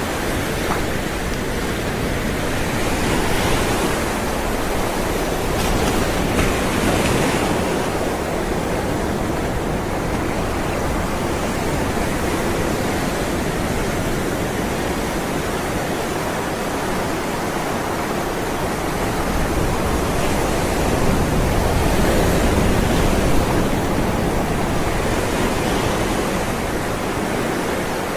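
Ocean waves rolling and breaking: a steady wash of surf that swells a little louder a few times, around three and seven seconds in and again from about twenty to twenty-four seconds.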